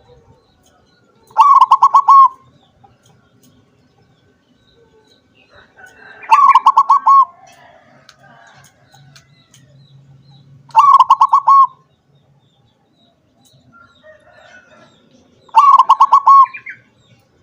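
Zebra dove (perkutut) singing: four short phrases of quick, rapidly repeated coos, one about every four to five seconds.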